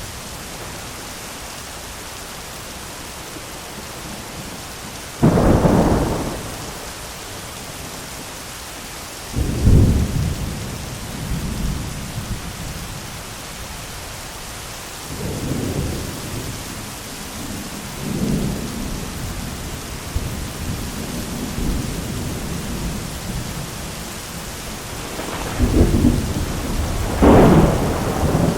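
Steady heavy rain with repeated thunder: a sharp clap about five seconds in, another near ten seconds, rolling rumbles in the middle, and two loud cracks close together near the end.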